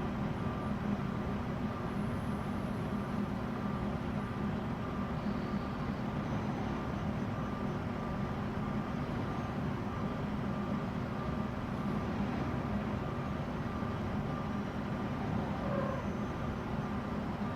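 Large truck's engine running steadily, a constant low drone with no clear revving or change in pitch.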